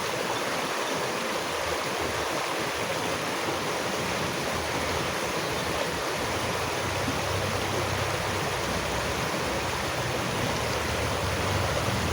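Running water rushing steadily, like a stream, with a low rumble that swells in the second half.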